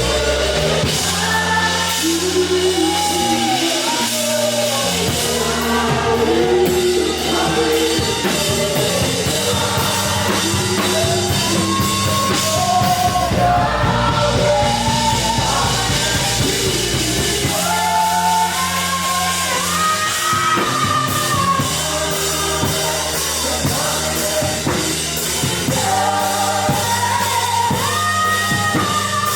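Live contemporary worship song: voices singing a melody over a band with drum kit and bass, continuing steadily.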